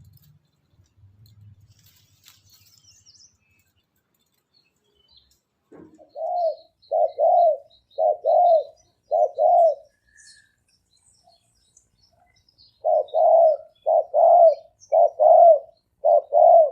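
Spotted dove cooing. There are two runs of low, repeated coos: one starts about six seconds in, and the second starts near thirteen seconds and is cut off at the end. It is a decoy bird's call, used to draw in and provoke wild doves.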